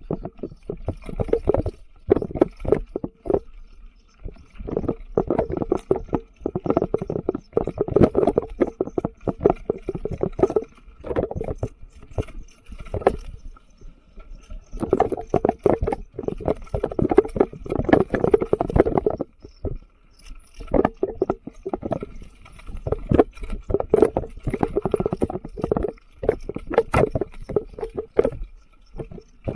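Mountain bike rolling down a rough forest trail: the frame and parts rattle, and the tyres crunch and knock over stones and roots in uneven bursts.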